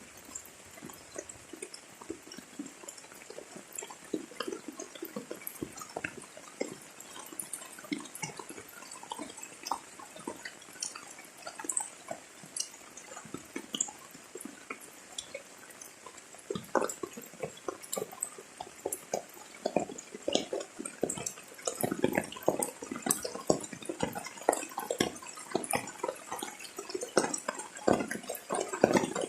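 Rain falling as many separate drops splashing irregularly, not a steady hiss. The drops grow denser and louder past the halfway point.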